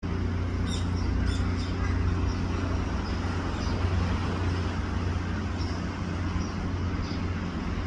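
Small birds giving short, high chirps, two clear ones about a second in and fainter ones scattered after, over a steady low rumble.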